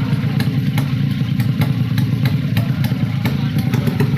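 Motorcycle engine running at a steady idle, with sharp clicks a few times a second.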